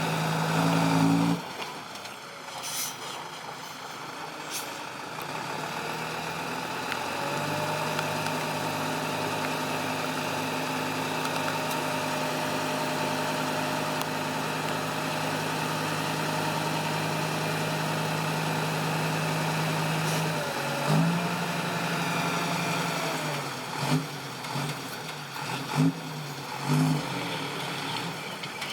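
Heavy diesel machinery engine running, with a steady higher tone that rises about seven seconds in and falls back about twenty-one seconds in. Several short knocks sound near the end.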